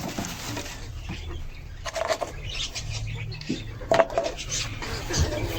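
Chickens giving a few short calls, about two and four seconds in, over a steady low hum.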